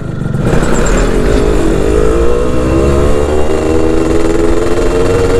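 Two-stroke underbone motorcycle engine pulling under way, its revs climbing slowly and steadily through a gear.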